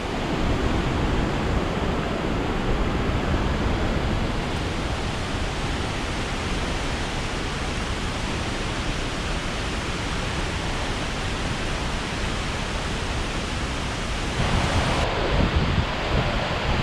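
A 110 ft waterfall in heavy flow: a steady, loud rush of falling water, getting louder near the end.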